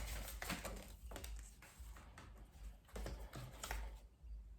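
Tarot cards being handled and shuffled, with soft irregular clicks and flicks of the cards.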